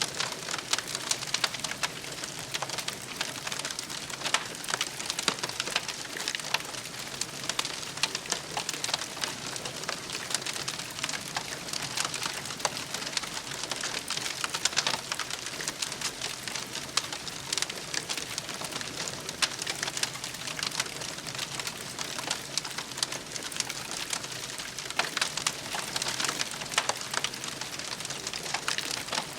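Wood fire crackling steadily: a constant soft hiss dense with quick, sharp snaps and pops.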